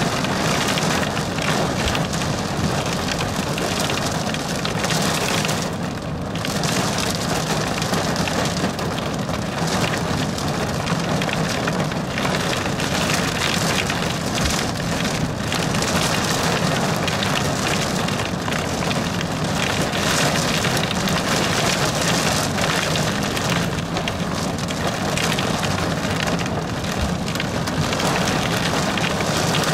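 Heavy rain pelting the car's windshield and roof, heard from inside the car as a steady, dense hiss, easing briefly about six seconds in.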